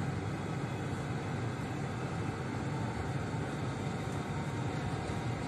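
Steady low rumble inside a Cercanías commuter train as it moves slowly along the platforms, with no distinct clicks or announcements.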